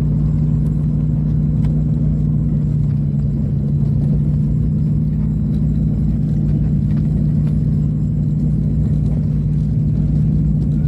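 Aircraft engines droning steadily, heard inside the passenger cabin: a loud, even hum with a strong low tone.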